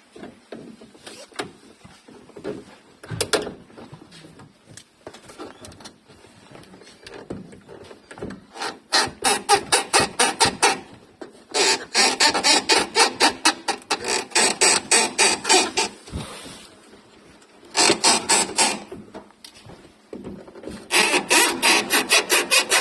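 Hand tool working in quick rasping strokes, about six a second, in several runs of one to four seconds with short pauses between, with a few scattered knocks before the first run.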